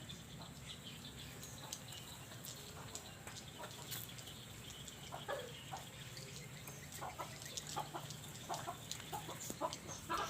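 Birds calling: faint high chirping throughout, with several short clucking calls in the second half.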